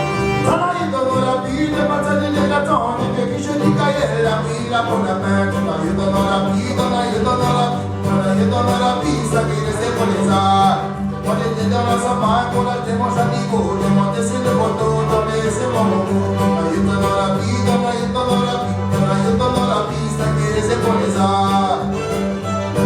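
Cajun string band playing a tune live: fiddle and accordion lead over strummed guitar and a steady bass line.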